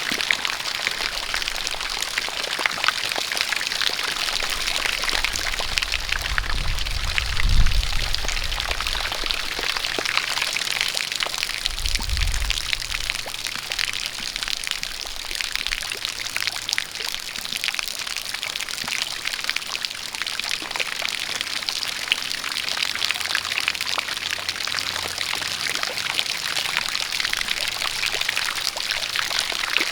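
Steady rain with a stream of water pouring continuously, full of fine drop ticks. A low rumble swells about seven seconds in and comes again briefly around twelve seconds.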